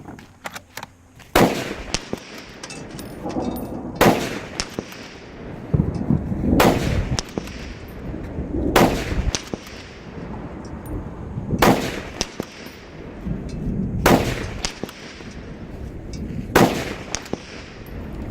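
Seven single gunshots, spaced about two and a half seconds apart, each with a short echo trailing after it.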